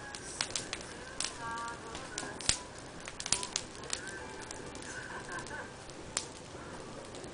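Wood fire crackling, with sharp, irregular pops scattered through, and birds chirping briefly in the background, about a second and a half in and again after about four seconds.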